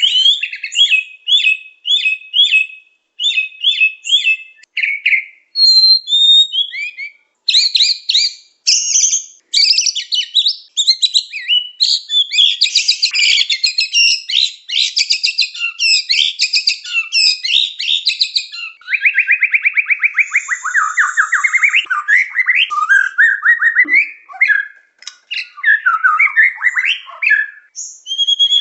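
Murai (Copsychus songbird) singing nonstop, a lure recording for trapping wild birds: a varied stream of loud whistled phrases and fast trills, some phrases repeated several times in a row, with a run of quick rising trills about two-thirds of the way through.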